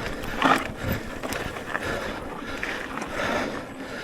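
E-mountain bike rolling over a dirt trail: the tyres rumble and the bike rattles in a steady haze of noise, with irregular knocks and a loud one about half a second in.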